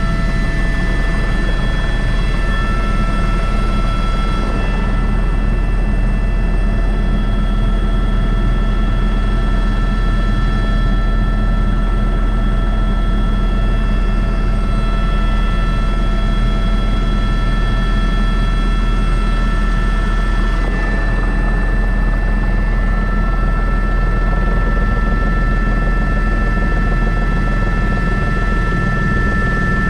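Airbus H125 (AS350 B3) helicopter in flight: the rotor's deep drone and the turbine's steady high whine, heard from the cockpit.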